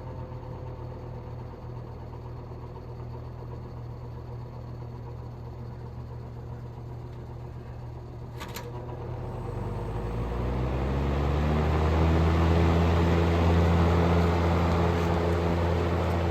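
General Electric W25 box fan motor running at low speed with a steady hum. A click comes about eight and a half seconds in, then the fan speeds up: the hum rises in pitch and grows louder over a couple of seconds and holds at the higher speed.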